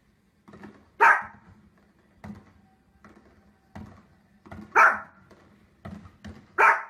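A dog barking: three loud, sharp barks, about a second in, near five seconds and just before the end, with quieter short barks between them.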